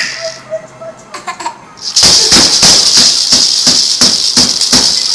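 A rattle shaken vigorously: a dense, hissing shake in quick strokes about four a second. The shaking fades out within the first half-second and starts again about two seconds in.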